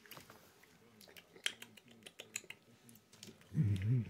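Soft, scattered clicks and crunches of someone chewing a chocolate bar with crunchy almonds, then a low hummed 'mmm' of enjoyment near the end.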